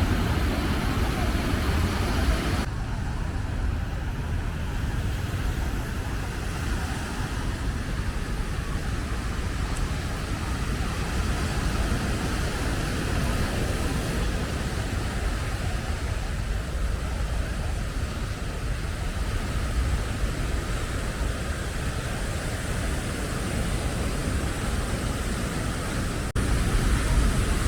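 Steady wash of ocean surf with wind rumbling on the microphone, and faint voices.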